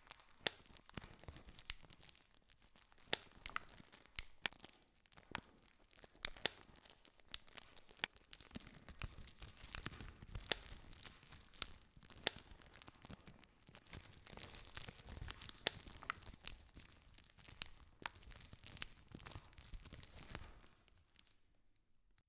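Wood campfire crackling, with frequent sharp pops and snaps over a steady hiss of burning; it dies away about a second before the end.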